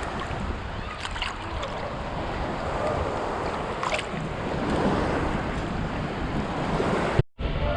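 Ocean surf washing in the shallows, with wind buffeting the microphone; the sound cuts off abruptly near the end.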